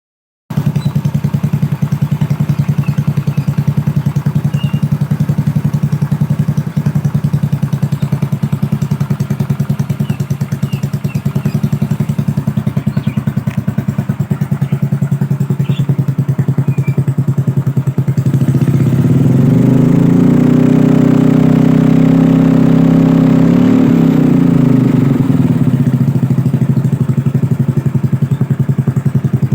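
Yamaha Mio Soul scooter's carbureted single-cylinder engine idling through a JRM aftermarket muffler. About two-thirds of the way through it is revved up, held high for a few seconds, then falls back to a steady idle.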